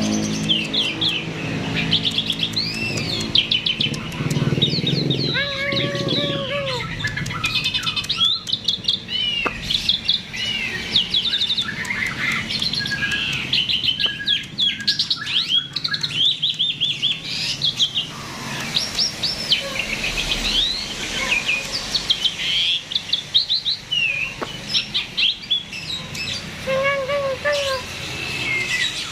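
A starling (jalak) in full song: a continuous, varied stream of whistles, chirps and rapid trills. A low steady hum runs underneath for the first several seconds.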